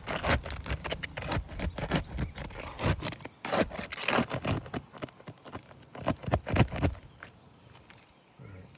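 Irregular scraping and rubbing of a three-tab asphalt shingle being worked by hand during a repair, dying down about seven seconds in.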